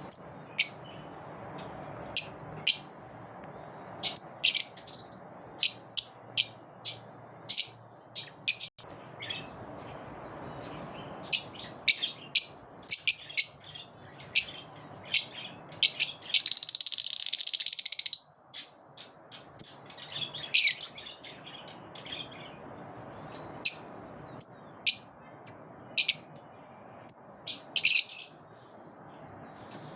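Pet lovebirds giving sharp, high chirps one after another, with a couple of seconds of continuous chattering a little past halfway, over a steady low background noise.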